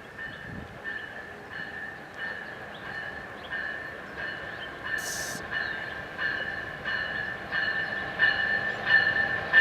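Amtrak Coast Starlight passenger train approaching behind an ALC-42 diesel-electric locomotive, growing steadily louder, with a high ringing that pulses about one and a half times a second. A short hiss comes about halfway through.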